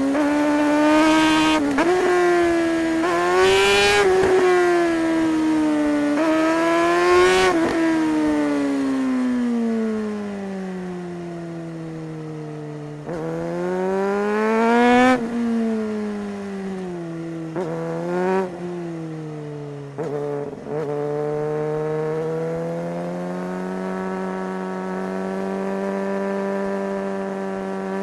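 Suzuki GSR 600's inline-four engine revving hard through the gears, its pitch climbing and dropping sharply at each quick upshift. It then falls away slowly on a closed throttle, pulls up again, gives a few short throttle blips on downshifts, and settles into a steady cruise near the end.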